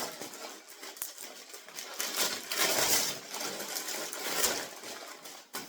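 Gift packaging crinkling and rustling as it is handled and opened, in uneven bursts with small clicks.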